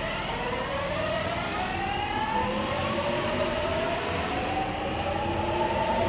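Subway train accelerating, its electric traction motors giving a whine of several tones that rises steadily in pitch over a running rumble.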